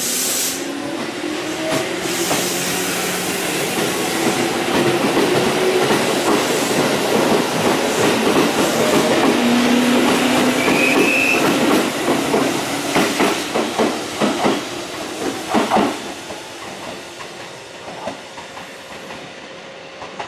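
Electric train moving through the station. Its motor whine rises in pitch at first. Then a run of clacks sounds as the wheels cross rail joints, with a brief high squeal, and the sound dies away over the last few seconds.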